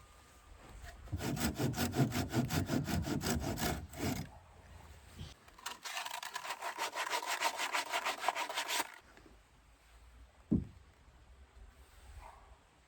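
Hand saw cutting wood in quick, even back-and-forth strokes, in two bouts; the second bout is higher and brighter. A single knock comes near the end.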